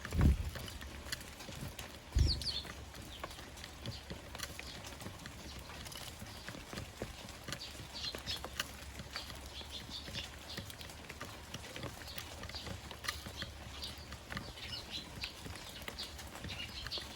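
Short high chirps of Eurasian tree sparrows over a steady scatter of small taps and clicks, with two low thumps near the start, about two seconds apart.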